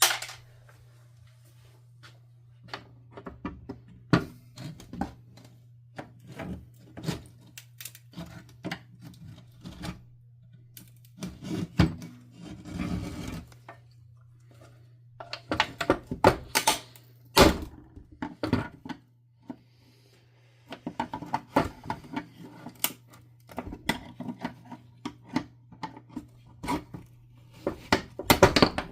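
Plastic parts of a vacuum power nozzle being handled and worked apart on a workbench as its small wheels and shafts come off: irregular clicks, knocks and short scraping and rubbing sounds, over a steady low hum.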